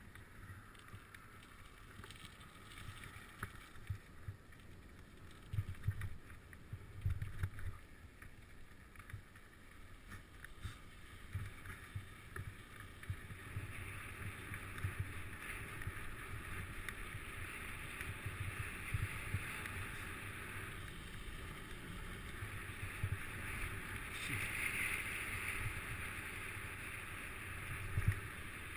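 Wind buffeting the microphone in irregular low gusts over a steady rushing hiss, which grows louder about halfway through.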